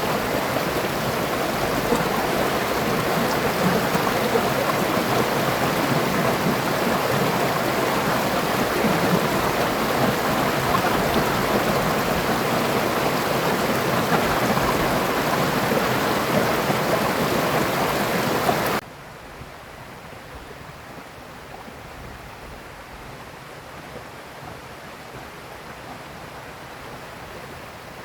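River water rushing steadily over rocks. About two-thirds of the way through it cuts off abruptly to a much quieter, steady background of water and air.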